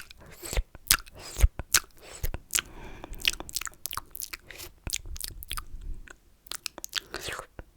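Close-miked ASMR mouth sounds: wet, sticky clicks and smacks of lips and tongue, coming fast and irregularly, with a few softer breathy slurps between them, growing sparser near the end.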